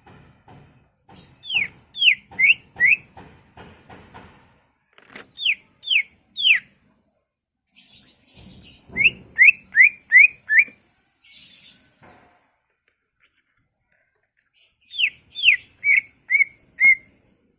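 Cucak ijo (green leafbird) singing: loud, clear whistles that each slide downward, given in quick runs of three to five, with softer scratchy chatter between the runs.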